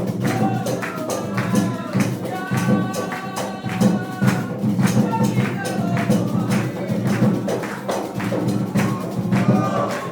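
Candomblé ritual song sung by voices over steady hand percussion, with quick, close-packed drum and jingle strikes.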